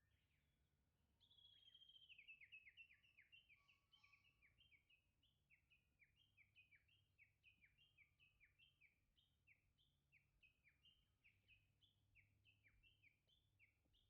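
A wild songbird singing a long, fast series of short, high, downslurred notes, about three a second, starting about a second in. The series is loudest and most tangled at first, then runs on evenly. A faint low hum lies underneath.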